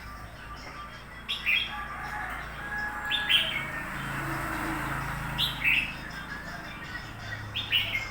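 Red-whiskered bulbul calling: four short, bright phrases, about two seconds apart.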